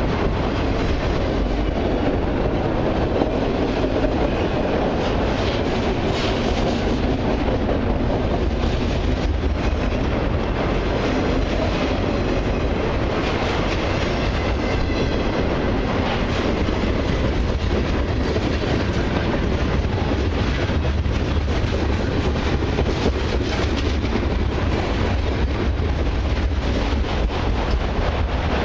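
Autoracks and mixed freight cars of a long CN freight train rolling past the track side, a steady, unbroken rolling noise.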